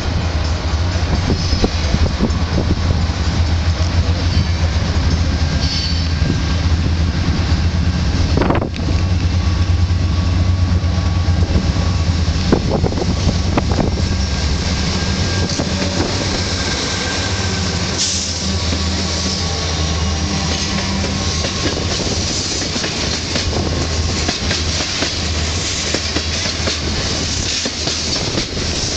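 Diesel freight train passing at close range: the lead CN GE Dash 9-44CW locomotive's engine runs with a steady low hum as it approaches and goes by. It is followed by a string of tank cars whose wheels clatter along the rails.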